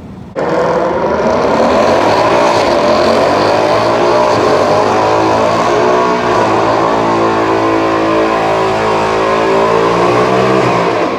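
A car engine held at high revs during a burnout, with the spinning tyres beneath it. It comes in suddenly about half a second in and stays pinned at a high, slightly wavering pitch for about ten seconds, then drops off near the end.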